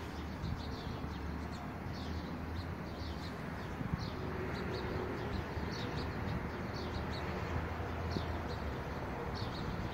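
Small birds chirping, short high calls repeating throughout, over a steady low rumble.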